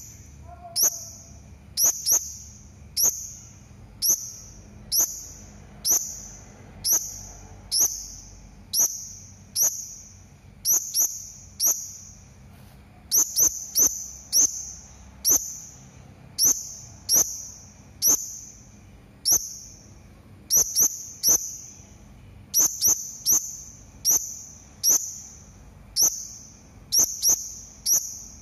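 Serindit (hanging parrot) giving shrill, high, sharp call notes about once a second, sometimes two in quick succession, repeated steadily as a lure call.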